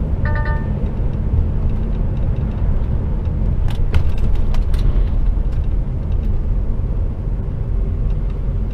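HGV container lorry running along the road, heard from inside the cab as a steady low engine and road rumble. A short steady tone sounds just after the start, and a few sharp clicks or rattles come about four seconds in.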